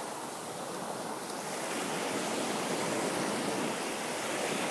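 Ocean surf washing up on the beach: a steady rush of breaking waves that swells a little and eases again.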